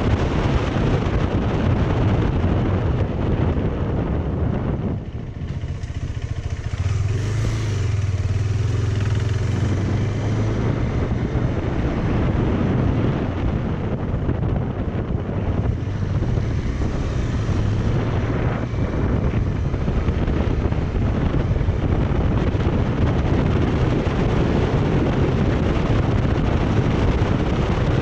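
Motorcycle running on the road with heavy wind noise on the microphone. About five seconds in the rush eases for a few seconds and a steady low engine note stands out, then the wind noise builds again.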